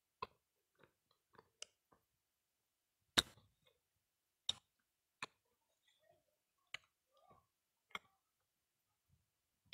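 Soft clicks and smacks of chewing chewy cilok (tapioca balls), about seven scattered clicks with near silence between them, the loudest about three seconds in.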